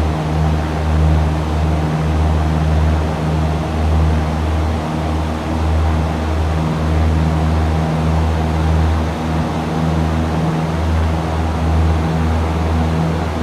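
Cessna 172's piston engine and propeller droning steadily in cruise flight, heard inside the cabin as a low constant hum that wavers slightly in loudness.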